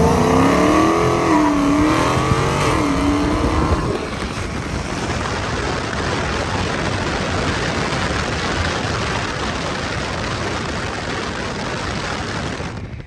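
Car engines at full throttle in a street race. For about four seconds the pitch climbs and falls back as the gears change, then a steady rushing roar carries on at speed and cuts off sharply near the end.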